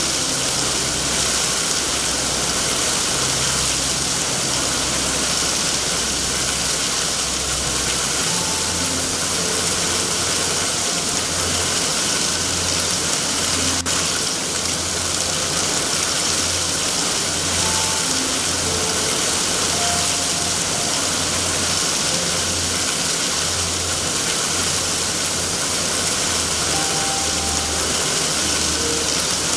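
Steady rain, an even hiss, over a low rumble that swells and fades.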